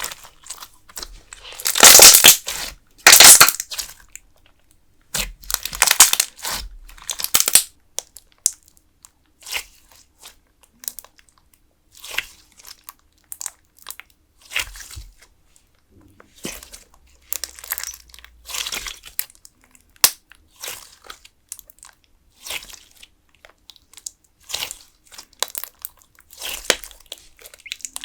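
Putty-style clear slime being squeezed and stretched in both hands, making irregular bursts of sound with short quiet gaps between them. The loudest bursts come a couple of seconds in.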